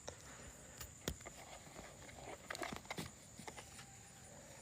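Faint, scattered rustling and light ticks and taps, like small footsteps moving through grass and leaves, with one sharper tick about a second in and a brief flurry a little past halfway, over a faint steady high-pitched whine.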